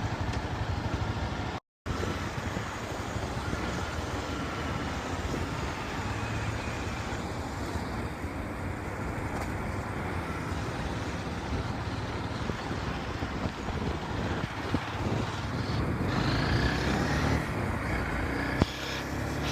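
Motorcycle engine running on the move, with wind and road noise of surrounding traffic; the pitch rises near the end. The sound cuts out completely for a split second about two seconds in.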